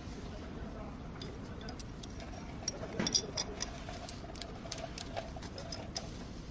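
Irregular light clicks and metallic taps, clustered most densely about three seconds in, over a steady low hum.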